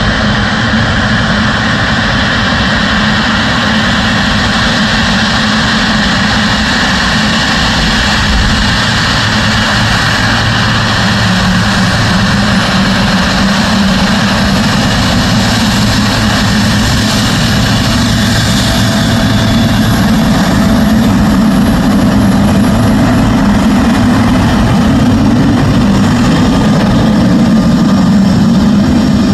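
Boeing 777F's twin GE90 turbofan engines running loud and steady as the freighter taxis, growing a little louder toward the end.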